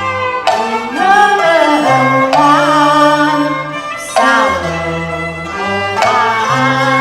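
Cantonese opera band playing: a bowed-string melody with wavering vibrato in phrases of about two seconds, over steady held bass notes.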